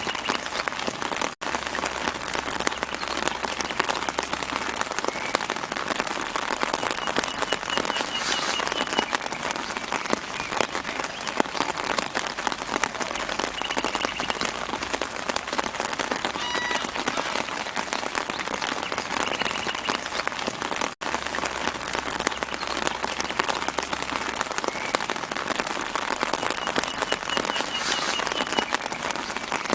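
Steady light rain pattering on leaves and ground, a dense even patter. A bird gives faint short trilled chirps a few times in the background. The sound drops out for an instant twice.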